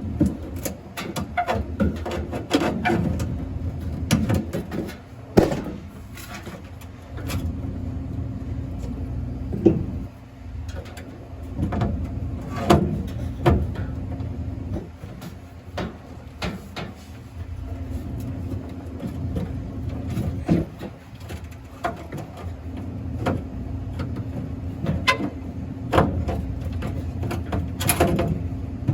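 Repeated irregular clicks, knocks and rattles of hands and tools working parts loose, over a steady low machine hum.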